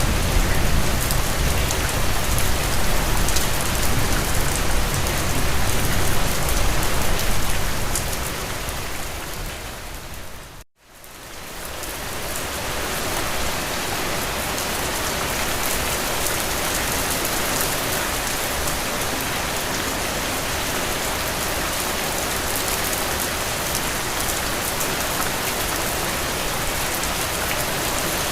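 Steady heavy rainfall. About ten seconds in it fades out to a brief silence, then fades back in as a steady rain with less low rumble, the join between two rain recordings.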